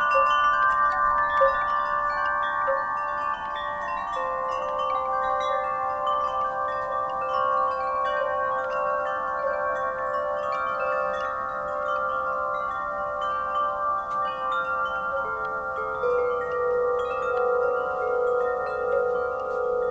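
Wind chimes struck by the breeze, many metal tones sounding irregularly and ringing on over one another, with the rings sustaining in a continuous shimmer.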